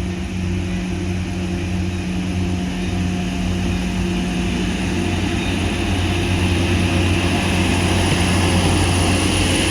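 Diesel multiple unit's underfloor diesel engine running with a steady low drone, growing a little louder and hissier over the last few seconds.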